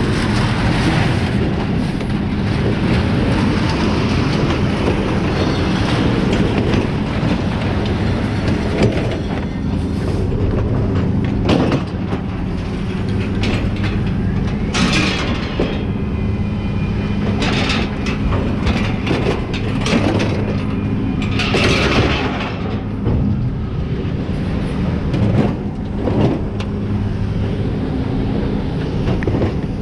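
An engine running steadily, with scrap metal clanking every few seconds as junk is thrown off onto the scrap pile.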